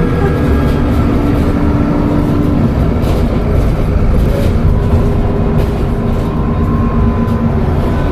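Dennis Trident double-decker bus with a Voith automatic gearbox, under way, its diesel engine and driveline running with a steady low rumble. A hum stops about two and a half seconds in. Faint thin high tones sit over the rumble, the turbo whistle.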